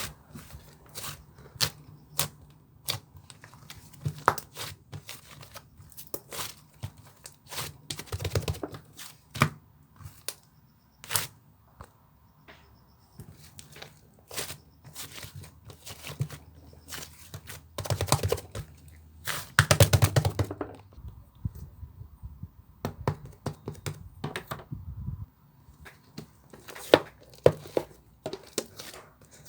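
Slime being squished, pressed and stretched by hand, giving irregular sticky clicks, pops and crackles that come thicker and louder about two-thirds of the way through.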